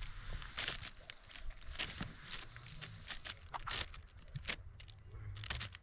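Irregular crunching and rustling, a dozen or so sharp strokes at uneven intervals, over a steady low rumble.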